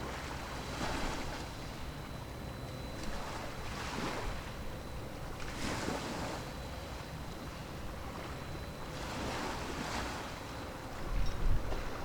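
Sea waves washing in, in hissing surges every few seconds, over a steady low rumble of wind on the microphone that gusts harder near the end.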